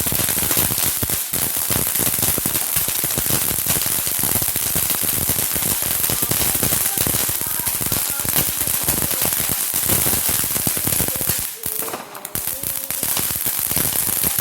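Consumer fireworks crackling: a dense, rapid string of small bangs, easing off briefly about twelve seconds in before picking up again.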